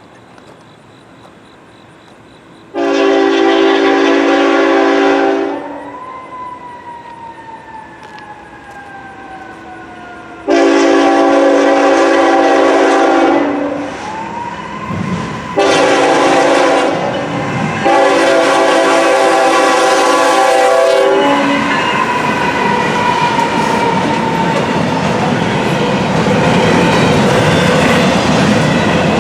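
GE ET44AC diesel locomotive's air horn sounding the long, long, short, long grade-crossing signal. Afterward the locomotive and intermodal container cars roll past with steady wheel and rail-joint clatter.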